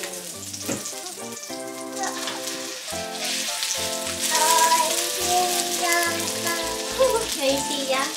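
Hamburger steak patties sizzling as they fry in oil in a frying pan, a steady hiss.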